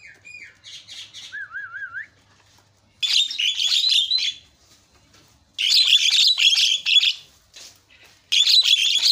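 Javan myna (jalak kebo) singing: a soft wavering whistle, then three loud bursts of rapid chattering, warbling song with short gaps between them.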